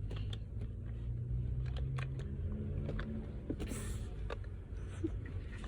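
Steady low hum and rumble of a car cabin, with scattered small clicks and taps of things being handled.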